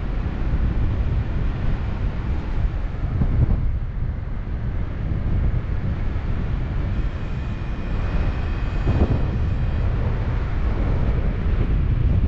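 Wind buffeting the microphone of a paraglider in flight: a steady low rumble of airflow noise, with a faint high steady tone in the second half.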